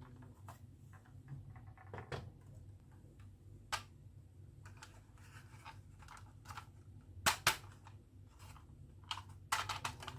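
Marbles clicking and clattering on a wooden marble-run track: irregular sharp clicks, the loudest a double click about seven seconds in and a quick run of clicks near the end.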